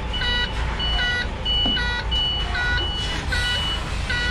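Container truck's reversing alarm beeping in an alternating two-tone pattern, a thin high beep then a fuller beep, about one cycle every 0.8 seconds, over the low rumble of the truck's diesel engine.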